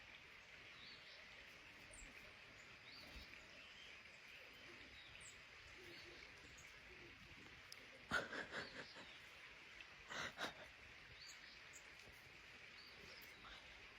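Faint outdoor ambience with a steady high hiss and scattered brief, high bird chirps, broken by two short louder sounds about eight and ten seconds in.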